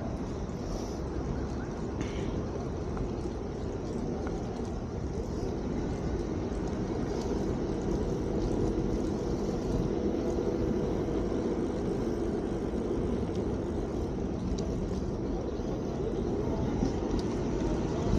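Steady rumble of wind and tyre noise from an electric bike being ridden along a street, growing a little louder partway through.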